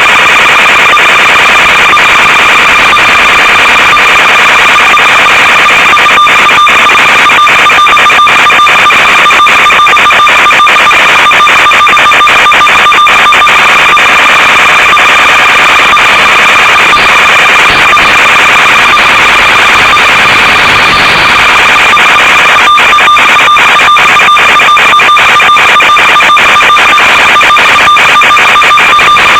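Loud, steady electronic buzz over a harsh hiss, with bursts of crackling static, typical of the audio channel of an analog FPV video feed recorded from the receiver.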